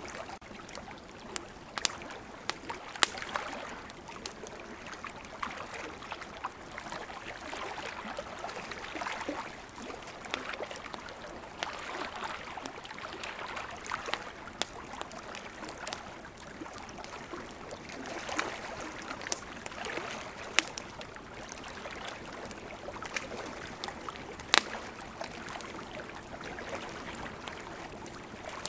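Wood campfire crackling, with sharp irregular pops, over the steady wash of sea waves that swells and fades every few seconds.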